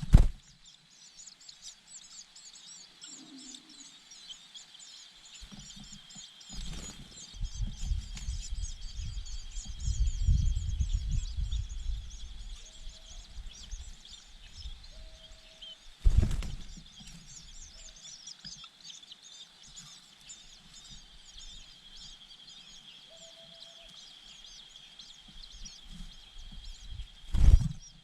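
Steady high-pitched chirping of birds in the background, with a few short faint lower calls. Wind buffets the microphone from about 6 to 13 s, and there are sharp thumps about 16 s in and near the end.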